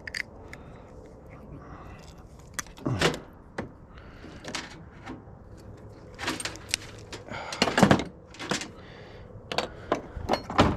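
Metal parts clinking and knocking as they are handled and pulled apart in a scrap teardown: a string of irregular sharp knocks and rattles, the loudest about eight seconds in.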